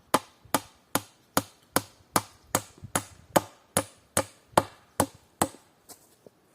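Hammer driving nails into wood: a steady run of about fifteen sharp blows, roughly two and a half a second, ending with two lighter taps.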